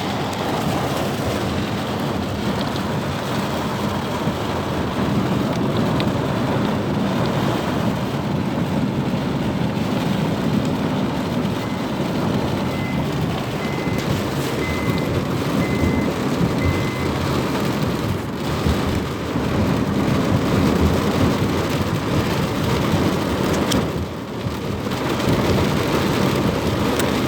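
Heavy rain pouring down steadily, mixed with the noise of vehicles on the wet road. About halfway through, five faint short beeps sound about a second apart.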